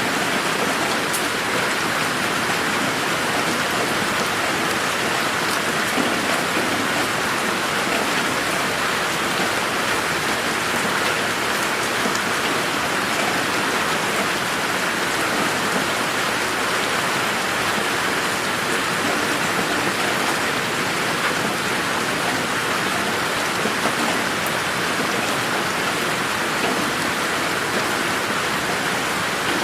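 Steady rain falling in a garden, an even hiss of drops with a few distinct drips standing out now and then.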